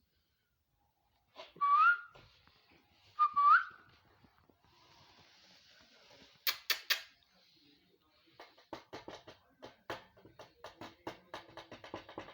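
Ringneck parrot giving two short whistles, each holding a note and then sliding up at the end. Afterwards come a few sharp clicks and then a run of rapid tapping clicks.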